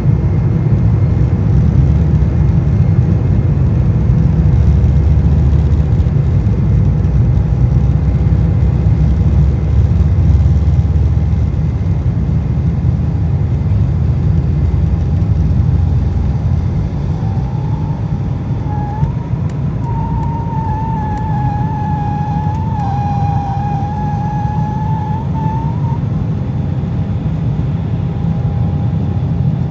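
Cabin noise of an Embraer E190 airliner in flight: a steady low rumble from its GE CF34 turbofans and the airflow. About seventeen seconds in, a thin wavering whine rises over it, holds for several seconds and fades.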